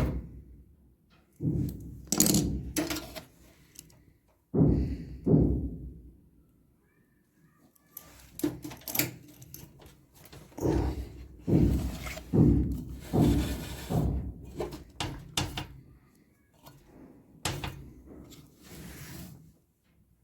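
Irregular heavy thumps and knocks during repair work on a washing machine, coming in quick runs with a quieter pause about a third of the way in.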